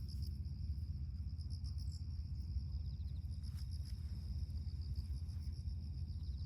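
Crickets chirping in a steady, rapidly pulsing high trill, over a steady low rumble.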